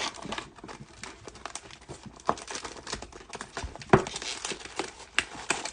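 Sealed foil trading-card packs and their cardboard box being handled: a continuous crinkling rustle with sharp taps and clicks, the loudest about four seconds in.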